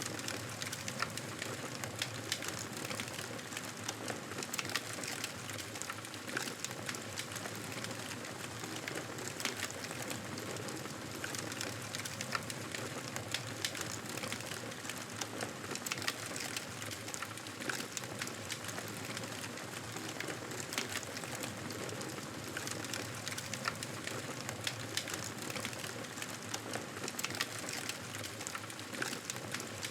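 Wood fire crackling in a fireplace: many short, irregular pops and snaps over a steady hiss.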